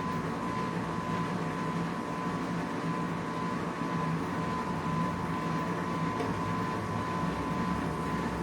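Bosch Komfort-Klasse washing machine running steadily: a low motor hum with a constant high whine over the noise of the turning drum.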